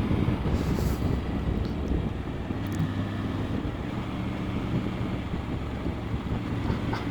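Motorcycle's three-cylinder engine running steadily under way, with wind rushing over the microphone.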